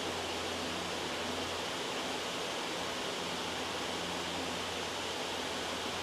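Loud, steady white-noise track: an even hiss, brightest in the upper middle, with a low hum underneath.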